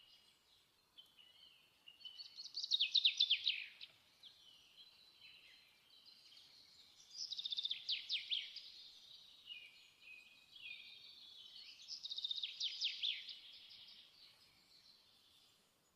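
A small songbird singing: three phrases of rapid high trills, one about every four to five seconds, with softer twittering between them.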